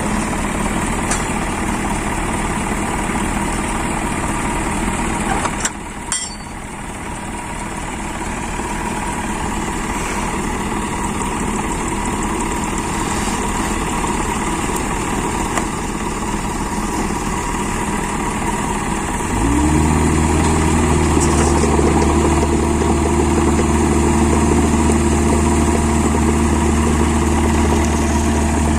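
Dump truck's diesel engine running at idle. About two-thirds of the way through, a louder, deeper engine note comes in, rising quickly and then holding steady.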